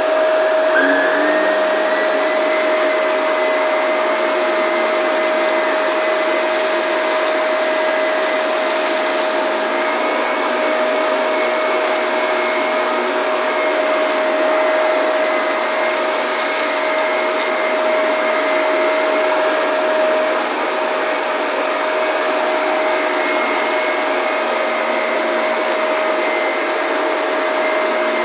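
Shark vacuum cleaner running steadily, its motor holding one constant whine over a rushing air noise. Twice a higher hiss swells for a few seconds, about a quarter of the way in and again past the middle.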